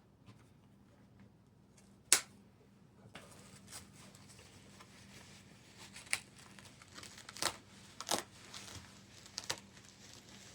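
Hands working on the cable tie around the animatronic's neck and the dress and hair around it. A sharp snap comes about two seconds in, then a faint rustling with several lighter clicks.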